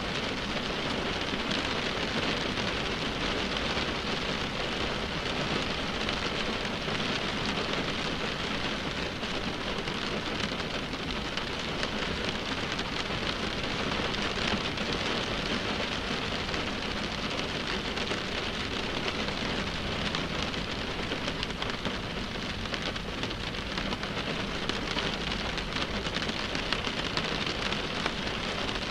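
Rain falling on a car windshield: a steady, dense tapping of raindrops on the glass.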